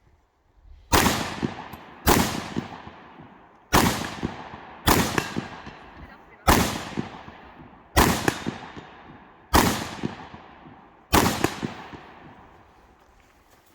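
Rifle shots fired singly in a string during an IPSC rifle stage: eight shots about one to one and a half seconds apart, each with a long echoing tail.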